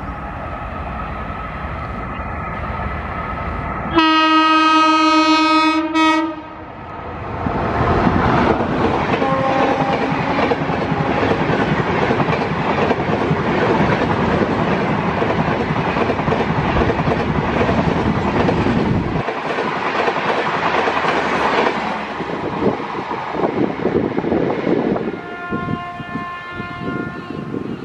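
Indian Railways electric locomotive sounding one long horn blast about four seconds in as it approaches. Its passenger train then rushes past, wheels clattering over the rail joints for about fifteen seconds. Near the end a second, fainter locomotive horn sounds.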